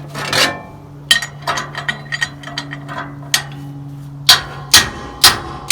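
Hammer striking metal on sawmill blade hardware: a few lighter clicks and knocks, then four hard blows about half a second apart near the end, each with a short metallic ring.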